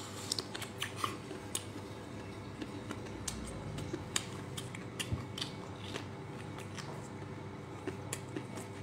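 Close-miked eating: a person biting and chewing, with scattered short, sharp mouth clicks and smacks.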